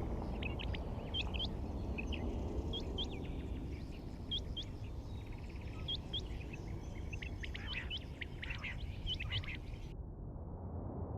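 Many small birds chirping in quick, short calls over a steady low rumble; the birdsong stops abruptly about ten seconds in while the rumble goes on.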